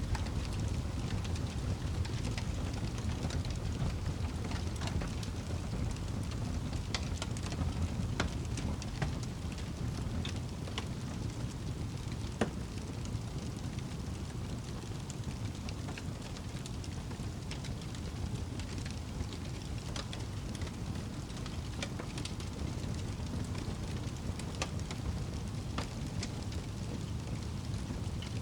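Campfire burning, with scattered sharp crackles and pops over a steady low rushing noise; the loudest pop comes about twelve seconds in.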